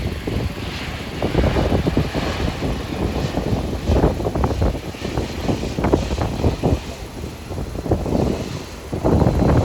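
Embraer E170 regional jet's twin turbofan engines at takeoff power, heard as a steady jet roar that swells and wavers.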